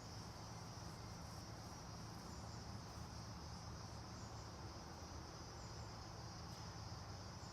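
Steady high-pitched chorus of insects, unbroken throughout, over a low steady background hum.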